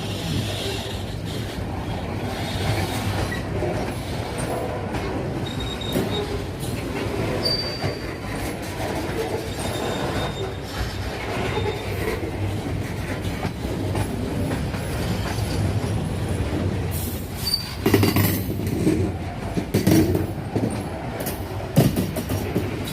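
Freight train rolling past with a steady rumble of wheels on rail, with short high wheel squeals now and then and several louder knocks near the end.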